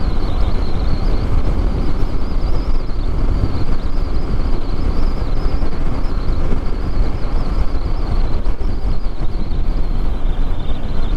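Yamaha MT-07 parallel-twin motorcycle under way, its engine and the wind rush of riding making a steady roar.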